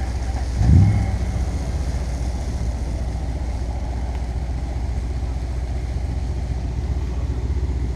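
Mercedes-AMG C63 S Edition 1's twin-turbo V8 through an Akrapovic exhaust, idling low and steady, with one short throttle blip just under a second in.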